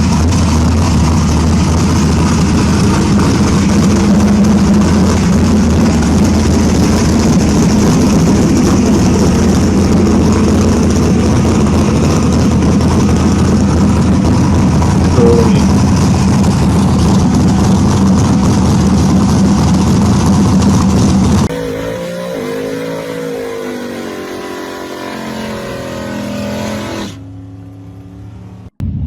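Loud muscle-car engine and exhaust running steadily at close range. About 21 seconds in the sound cuts to a quieter car engine whose pitch rises and falls as it is revved, with another abrupt cut near the end.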